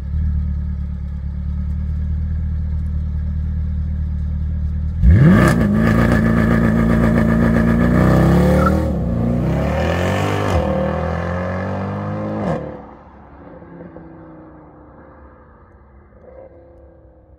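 Mercedes C63 AMG Black Series' naturally aspirated 6.2-litre V8 idling, then revved hard about five seconds in and held loud with its pitch shifting for about seven seconds. The sound then drops off sharply and stays faint.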